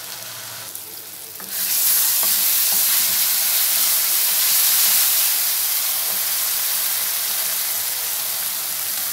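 Onion-tomato masala frying and sizzling in a non-stick wok, stirred with a wooden spoon. About a second and a half in the sizzle jumps much louder and stays loud as a little water goes into the drying masala.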